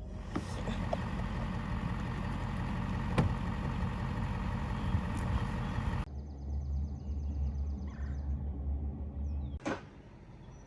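Vehicle running, heard from inside, as a steady rumble. About six seconds in the sound cuts abruptly to a steadier low hum, with a single sharp knock near the end.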